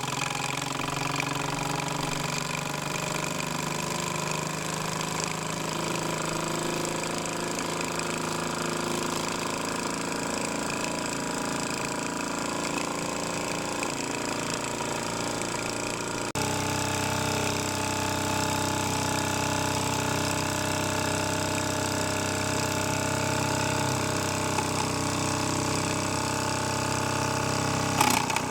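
Mamod Ol' Stumpy model live steam traction engine running steadily under steam. Its tone shifts abruptly about halfway through, and there is a brief click near the end.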